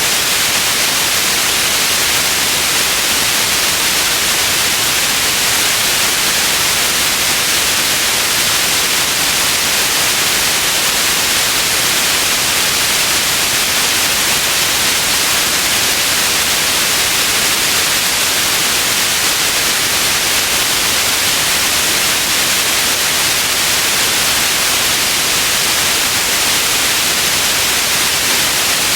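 Steady white noise: an even, unchanging hiss, strongest in the upper register, with no events or changes.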